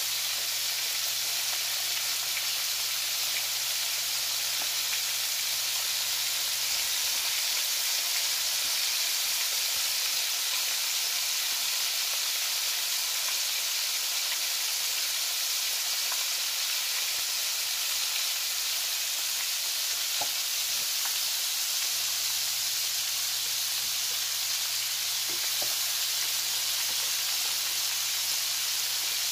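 Flour-dredged chicken wings deep-frying in hot oil in a stainless steel pan: a steady, even sizzle.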